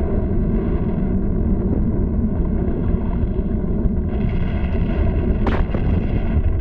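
A continuous deep rumble of a volcanic eruption sound effect on an old cartoon soundtrack, with a single sharp crack about five and a half seconds in.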